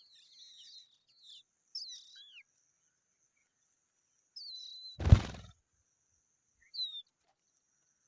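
Young skylarks giving short, high chirps that slide down in pitch, several close together early on, then one or two more. A single loud thump about five seconds in, louder than the calls.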